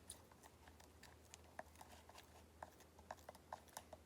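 Quiet, irregular light clicks and taps from a cup and utensils being handled while glue and water are mixed for slime, over a faint low hum.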